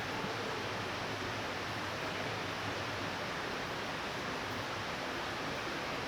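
Light rain falling steadily: an even hiss with no distinct drops or thunderclaps standing out.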